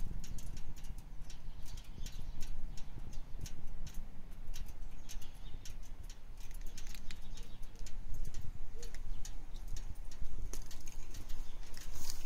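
2014 Harley-Davidson Breakout's Twin Cam 103 V-twin idling through a full Freedom Performance Amendment exhaust, a steady, rapidly pulsing beat.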